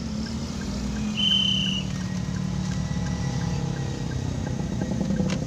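Car engine running steadily at low speed, heard from inside the cabin, with a faint regular ticking. A short, high, whistle-like beep sounds once about a second in.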